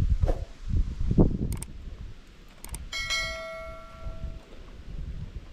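A single bell-like chime about three seconds in, ringing with several bright tones and fading over about a second and a half. It follows a few low thumps and two light clicks.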